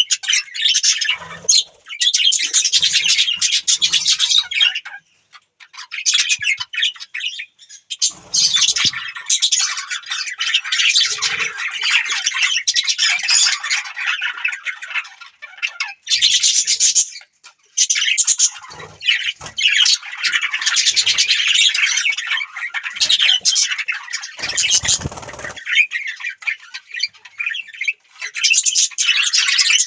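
Budgerigars chattering and chirping in fast, busy bouts with squawks mixed in, broken by a few short pauses.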